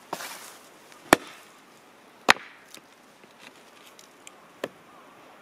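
Axe chopping firewood: two sharp strikes about a second apart, then a lighter strike near the end, with small knocks of wood between.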